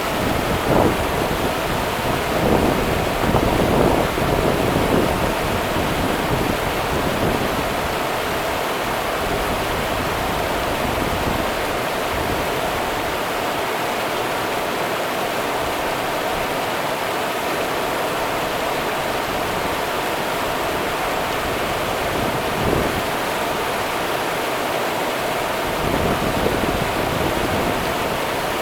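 Rio Grande river water running steadily, a continuous rushing with a few brief splashing swells in the first few seconds and again near the end.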